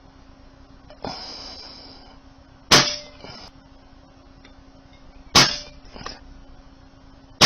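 Pre-charged pneumatic air rifle, a Brocock Concept, firing three shots about two and a half seconds apart. Each is a sharp crack with a brief metallic ring, followed by a smaller click under a second later.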